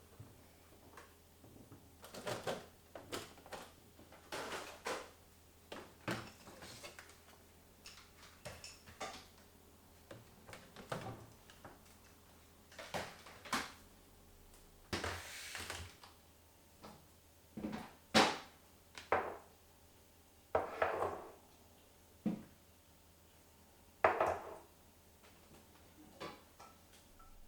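Household items such as containers being handled and set down: irregular clicks and knocks, with one longer noisy stretch about fifteen seconds in.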